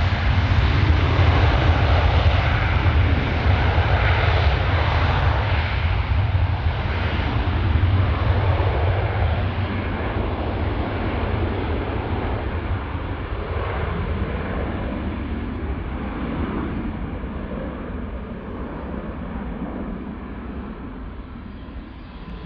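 Airbus A321 jet airliner departing under takeoff power. The engines are loudest in the first several seconds, then fade steadily as the aircraft moves away.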